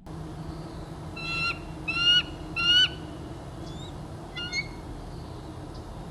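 A bird honking three times in quick succession, each call short and rising slightly, then once more faintly, over a steady low hum.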